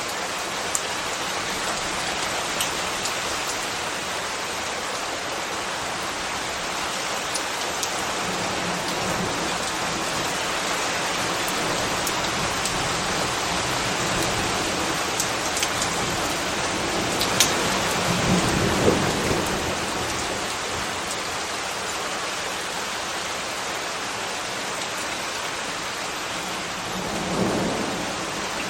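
Steady rain falling, an even hiss of drops with occasional sharper drip ticks. About two-thirds of the way in a low rumbling swell rises and fades over a few seconds, and a smaller one comes near the end.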